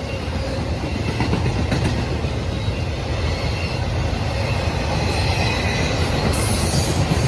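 BNSF freight train rolling past: a steady rumble of steel wheels on the rails that grows slightly louder, with a faint high wheel squeal.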